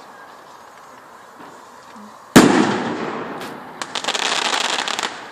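A firework going off: one sharp loud bang about two seconds in, dying away, followed about a second later by a dense, rapid crackle that lasts over a second.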